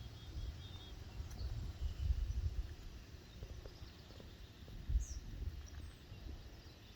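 Quiet outdoor background: an uneven low rumble that swells and fades, with a few faint, short bird chirps near the start and one high falling chirp about five seconds in.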